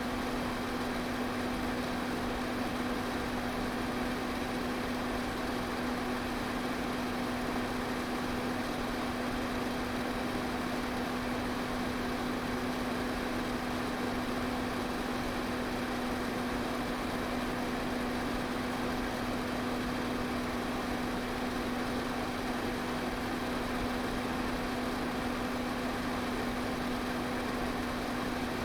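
Pedestal fan running steadily: an even rush of air over a constant motor hum.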